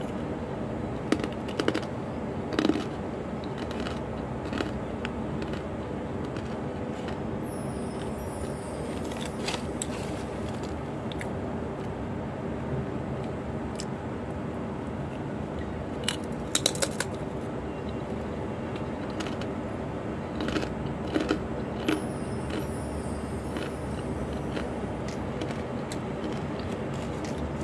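Crisp fried fish crackers being bitten and chewed, with short sharp crunches now and then, the most around the middle, over a steady background hum.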